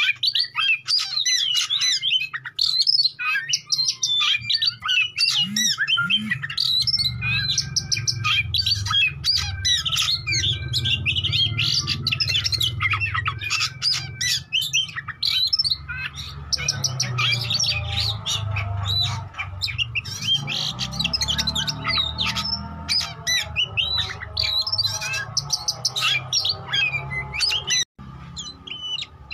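Oriental magpie-robin (kacer) singing a fast, unbroken, varied song of chirps, whistles and harsh notes, with a low hum underneath from about seven seconds in. The song drops out for an instant near the end.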